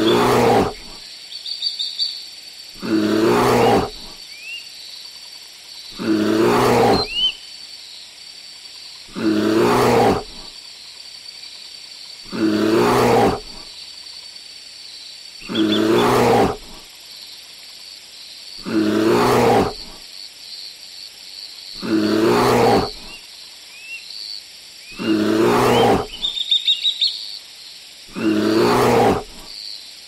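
A large animal giving deep roaring calls, each just under a second long, repeated very regularly about every three seconds. Faint bird chirps come between the calls.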